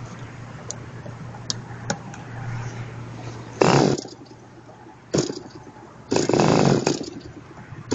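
Small ASP 25 model glow engine being cranked to start it: three short loud bursts, the last and longest near the end, over a steady low hum and a few light clicks.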